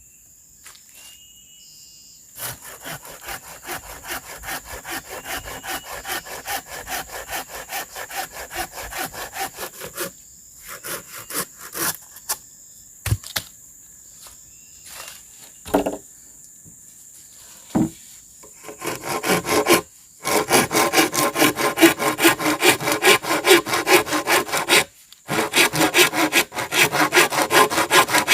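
A hand saw cuts bamboo in quick back-and-forth strokes. A lighter run of strokes is followed by a few scattered knocks, then a louder, faster run of sawing near the end with a brief pause.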